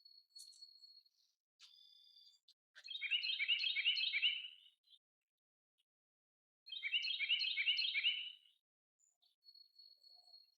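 Songbird singing: two loud phrases of quickly repeated notes a few seconds apart, with thin, high, steady whistled notes before and after.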